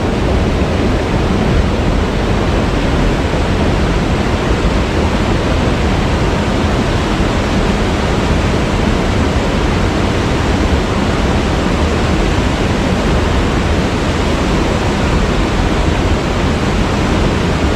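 Waterfall: a steady, even rush of falling water, heaviest in the low rumble.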